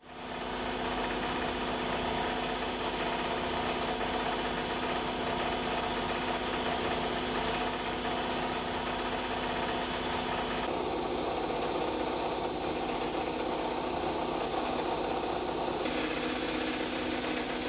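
A machine starts up abruptly and runs with a steady buzzing hum and hiss, its tone shifting about eleven seconds in and again near the end.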